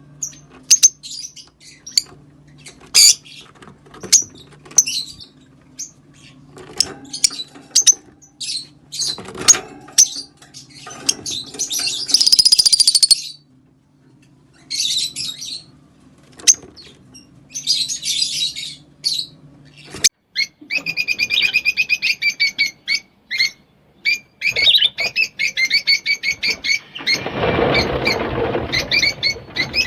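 Rosy-faced lovebirds calling, a run of sharp, shrill chirps and harsh chattering squawks from several birds. About two-thirds of the way through the calls turn into a fast string of rapidly repeated chirps, and near the end a loud rushing burst cuts in under them.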